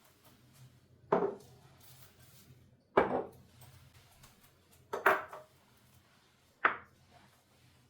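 Dishes and kitchenware being handled and set down: four separate clatters about two seconds apart, each with a short ring.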